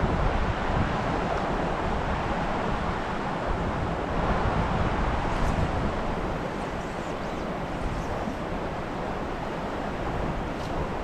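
Steady rushing of a trout stream, with wind buffeting the microphone in uneven low rumbles.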